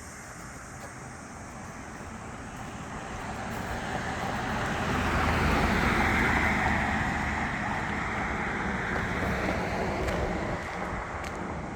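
A road vehicle driving past, its engine and tyre noise swelling to its loudest about six seconds in, then slowly fading away.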